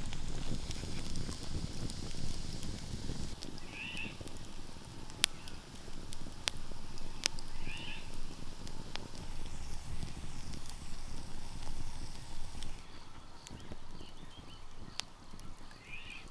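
Outdoor ambience: a short call repeats about every four seconds over scattered sharp clicks, with some low rumbling in places.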